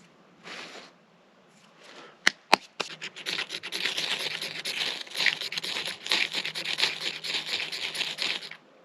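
Two sharp clicks, then a blade scraping hard and fast in rapid strokes for about five seconds before stopping abruptly.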